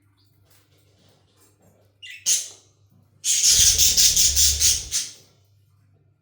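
Pet budgerigar calling: a short rising chirp about two seconds in, then a loud, harsh squawk that pulses rapidly for nearly two seconds.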